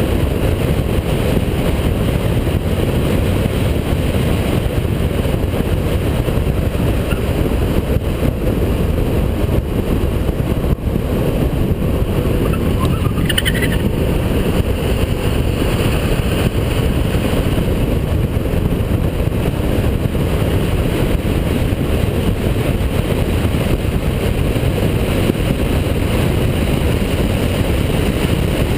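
Holden VP Commodore's 3.8-litre V6 running under hard load at race pace, a dense, steady engine and road noise. A short, faint rising whine sounds about halfway through.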